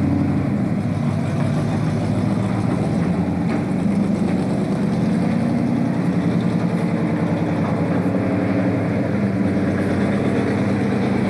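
Ford Falcon GT V8 engine idling steadily with a low exhaust rumble.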